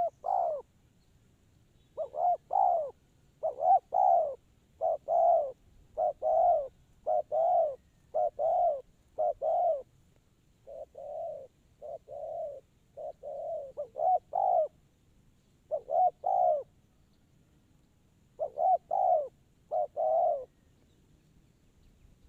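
Spotted dove cooing: a long series of short coos in twos and threes, about one group every second or so, stopping shortly before the end.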